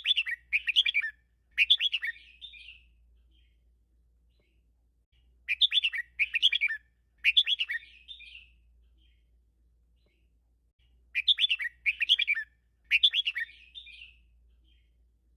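Red-whiskered bulbul singing: three song phrases about five seconds apart, each a quick run of several bright, warbling notes.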